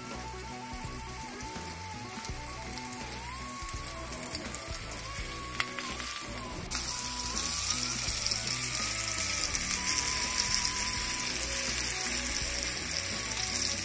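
Steelhead fillets frying in fat in a pan, with a steady sizzle that turns louder and brighter about halfway through. A soft melody plays over it.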